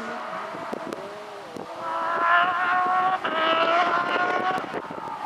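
Porsche rally car's flat-six engine at full throttle, its note climbing, then a quick upshift about three seconds in before it climbs again and fades away. A couple of sharp cracks come before it pulls away.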